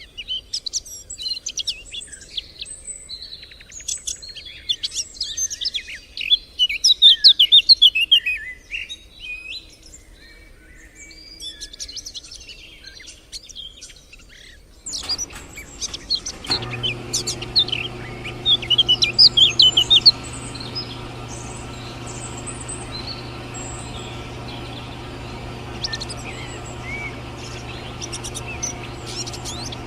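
Small birds chirping and tweeting. A little past halfway a steady motor hum starts and keeps running under the chirps.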